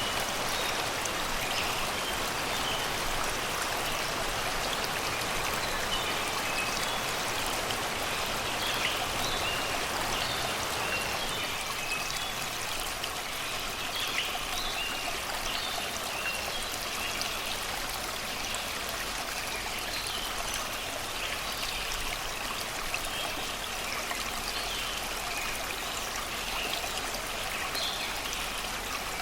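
Shallow river water rushing and babbling steadily over rocks and stones, with forest birds singing short, high chirps repeated over the top.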